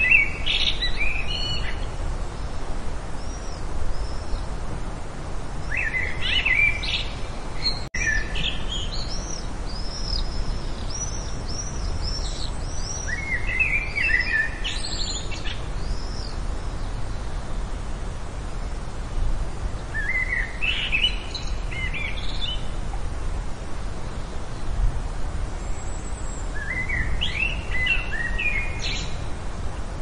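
Bird song: a bird repeats a short warbled phrase about every six to seven seconds, with fainter high chirps in between, over a steady low outdoor rumble. The sound cuts out for an instant about eight seconds in.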